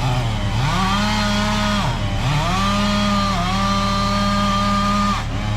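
Chainsaw revving from idle to full throttle and cutting into a pecan tree trunk, holding a high steady pitch. It drops back briefly about two seconds in, then revs up and holds again, and falls back to idle near the end.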